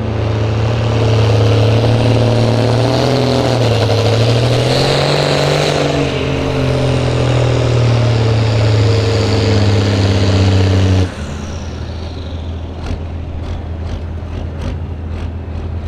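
Ford 8200 tractor's engine running hard under load on a pulling sled, its pitch wavering and rising midway, then dropping suddenly to a lower, quieter idle about eleven seconds in. A few light clicks follow near the end.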